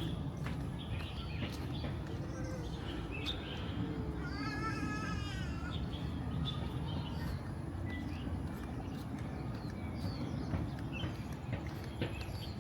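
Small birds chirping in short calls scattered throughout, over a steady low outdoor background rumble.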